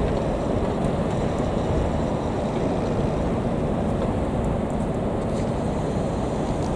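Steady low rumble of an electric train running, with no change in loudness.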